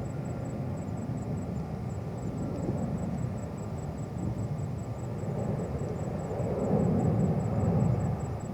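Distant jet airliner engine rumble, swelling louder about seven seconds in.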